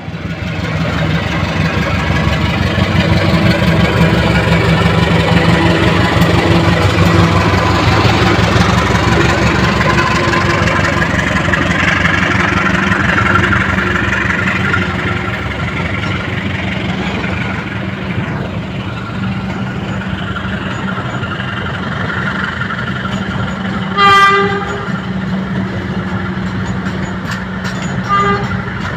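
Train running past with a heavy rumble and rail noise, which builds over the first few seconds and eases off after about the halfway point. A short, loud horn blast sounds about three-quarters of the way through, and a briefer toot comes near the end.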